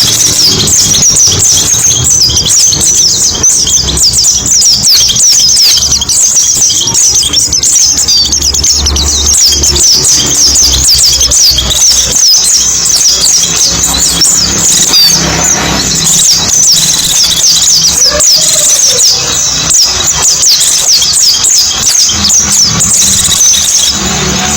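White-eye (pleci) birdsong: a dense, unbroken stream of rapid, high-pitched twittering chirps, with a low hum underneath.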